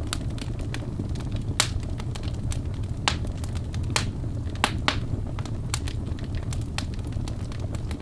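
Wood fire burning in a fireplace: a steady low rumble of flame with irregular sharp crackles and pops from the burning logs, several of them louder.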